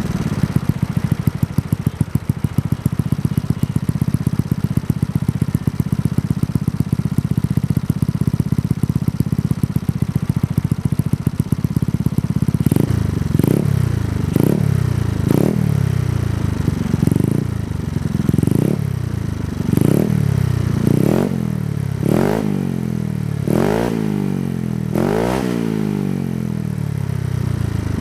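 Yamaha Mio scooter's single-cylinder engine through a Kenochi K1 racing exhaust, idling with a fast, even pulse, then revved from about halfway in a string of about a dozen quick throttle blips, each rising and falling in pitch, the last few the loudest.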